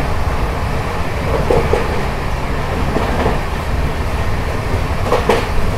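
Sleeper-class coach of an Indian Railways express running at speed, heard from inside: a steady rumble of wheels on track, with a few brief squeaks standing out about every one and a half to two seconds.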